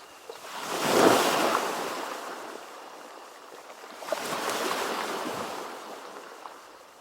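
Ocean waves breaking and washing on the shore, one surge about a second in and another about four seconds in, each fading away.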